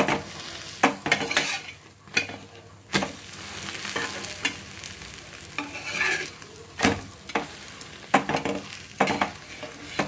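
Egg paratha sizzling in oil on an iron tawa. A steel spatula scrapes and knocks against the pan many times as the paratha is flipped over.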